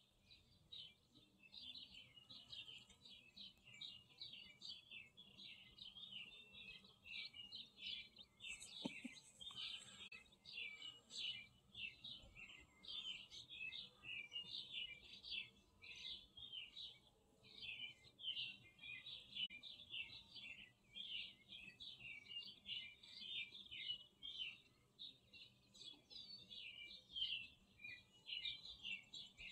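Small birds chirping steadily: an unbroken chatter of short high chirps, several a second.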